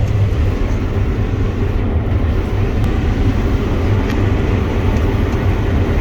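Combine harvester running steadily while harvesting, heard from inside the cab: an even, unbroken low drone of engine and threshing machinery.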